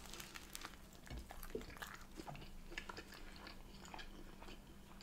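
Faint close-miked chewing and biting of a soft bread bun filled with sausage and fried egg: many small, quick wet mouth clicks and smacks.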